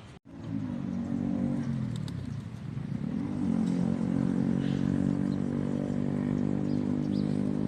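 An engine running steadily, its pitch dipping and then rising again about three seconds in.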